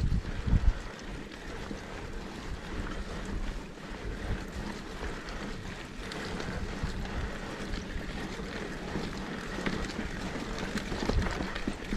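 Mountain bike rolling down a dirt trail: tyre noise and small rattles of the bike over rough ground, with wind buffeting the microphone, heaviest at the start and again near the end.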